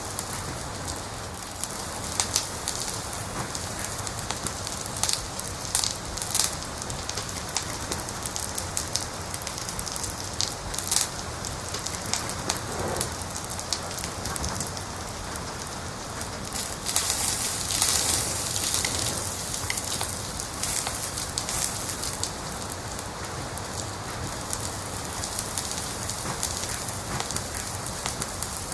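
Wood fire crackling, a steady hiss with sharp pops scattered throughout and a denser flurry of crackles about two-thirds of the way through.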